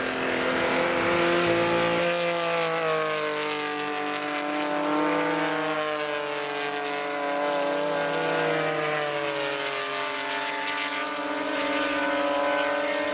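Early Porsche 911 air-cooled flat-six race engines running hard, a continuous engine note whose pitch sags over a few seconds, climbs again around the middle, dips and climbs once more near the end as the cars work through the gears and corners.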